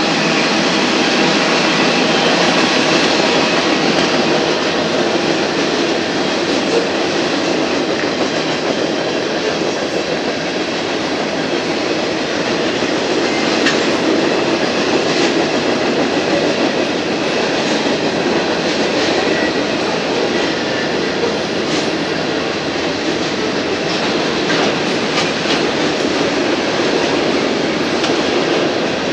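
Freight cars of a Union Pacific manifest train rolling steadily past: continuous noise of steel wheels on the rails, with a few scattered clicks.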